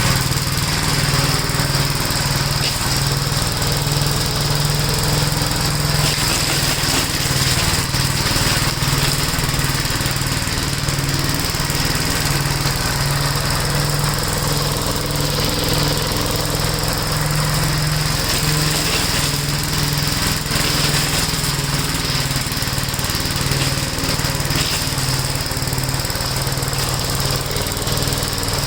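1969 Gravely L-series walk-behind tractor's single-cylinder engine running steadily under load with its mower attachment, mulching leaves and nuts. A steady high whine runs over the pulsing engine note.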